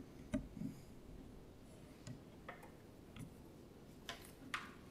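Quiet room tone with a few scattered faint clicks and small knocks.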